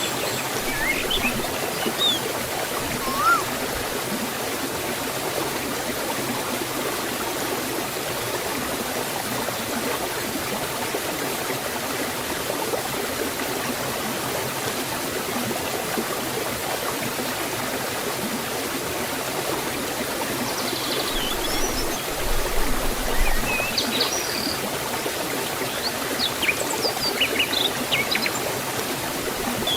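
Steady rush of water flowing in a forest waterfall and stream. A few short bird chirps come through about two seconds in and again in the last ten seconds.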